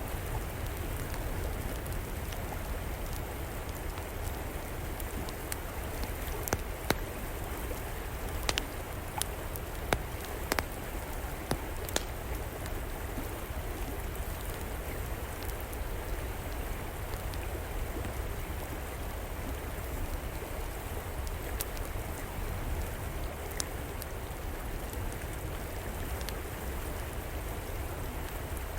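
Wood fire crackling over a river flowing steadily: sharp pops and snaps come at irregular moments, most thickly in the first half, above an even rush of water.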